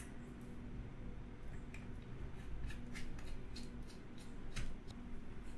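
Precision screwdriver driving the small screws of a MacBook's bottom case back in: faint, irregular light clicks and ticks.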